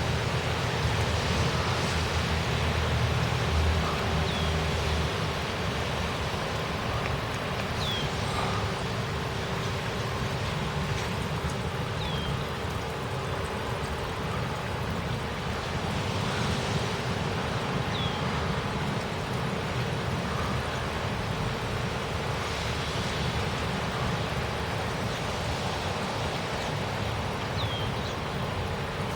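Heavy thunderstorm rain falling steadily as an even hiss, with a low rumble in the first few seconds. A few short, high, falling chirps come through the rain.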